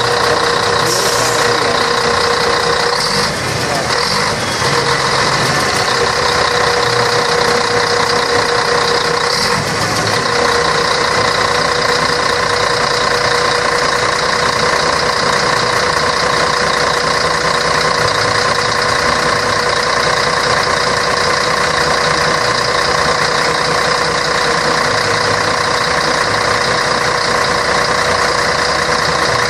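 Scania K113 bus's 11-litre six-cylinder diesel engine running steadily, with a continuous even drone and a steady tone in its sound throughout.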